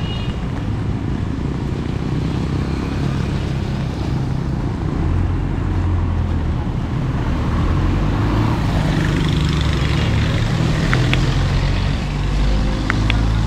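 Motor vehicle engine running close by on a wet street, its low hum growing louder from about five seconds in, over a steady hiss of heavy rain and traffic, with a few short sharp ticks near the end.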